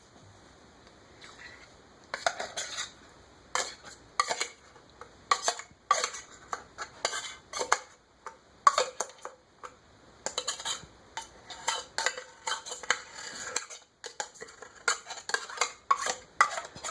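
A metal spoon or fork clinking and scraping against a can and dish, scooping out wet cat food in gravy. The sharp, irregular clinks and scrapes start about two seconds in and keep coming, a few each second.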